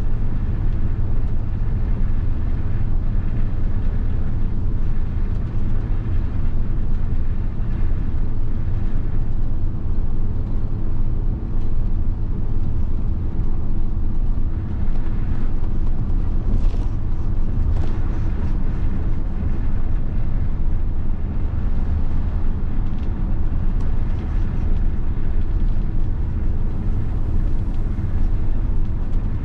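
The 7.5-litre diesel engine of a 1990 Mitsubishi Fuso bus running steadily, a constant low rumble with no change in pace.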